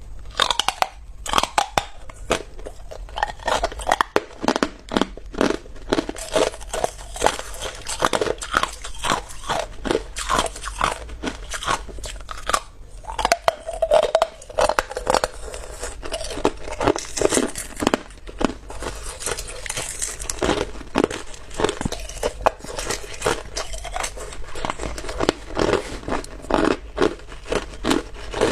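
Clear ice being bitten and chewed close to the microphone: a dense, irregular run of sharp crunches and cracks.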